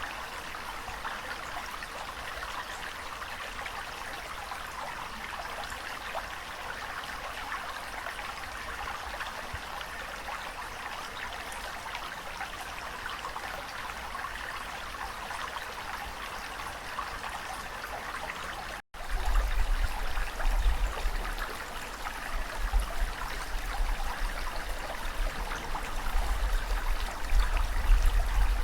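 Steady rushing water. About two-thirds through, the sound drops out for an instant and resumes louder, with a deep rumble that comes and goes underneath the water.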